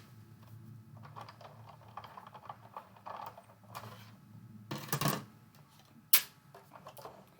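Light clicks and rustles of thin metal craft dies and cardstock being handled on a tabletop, with one sharp click just after six seconds in.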